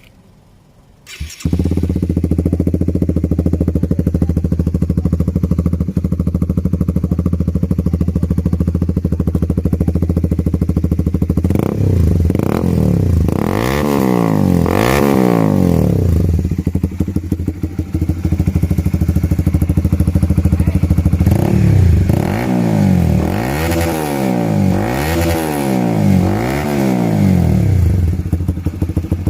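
Honda CBR150's single-cylinder four-stroke engine, breathing through a newly fitted exhaust, starting about a second in and settling into a steady idle. It is revved in three quick throttle blips around the middle, then in a run of about five blips near the end, dropping back to idle after each.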